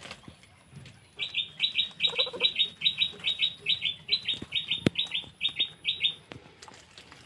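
A bird chirping: a steady run of short, high, slightly falling notes in quick pairs, about two and a half pairs a second, lasting about five seconds. A single sharp click comes about five seconds in.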